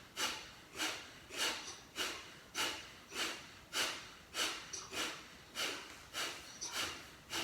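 Kapalbhati pranayama breathing: a steady run of short, forceful exhalations through the nose, about one and a half to two a second, each a sharp puff that fades quickly.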